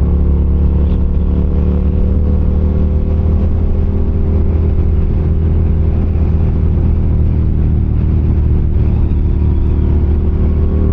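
Yamaha MT-07's parallel-twin engine running at a steady speed under way, its pitch holding nearly constant.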